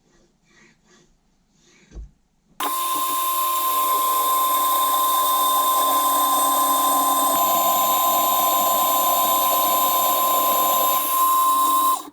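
A few light metal clinks and a thump, then an electric power tool starts abruptly and runs at a steady speed for about nine seconds, a constant whine with one strong tone, before stopping suddenly.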